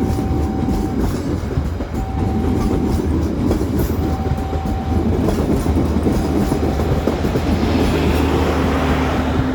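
Local passenger train running past close by, a steady heavy rumble with clicks of the wheels over the rails. A steady mid-pitched tone sounds for about a second, roughly every two seconds.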